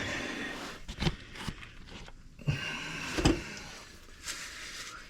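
Handling noise from exhaust pipe pieces being fitted together: a handful of knocks and scrapes, the loudest a couple of dull knocks around the middle.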